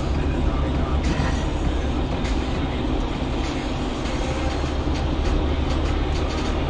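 Steady, loud rumble of a moving vehicle, with a strong low drone and a few faint clicks and knocks.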